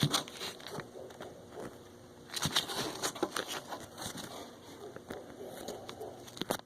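Handling noise from hands at work: scattered small clicks, scrapes and rustles, busiest from about two and a half to three and a half seconds in.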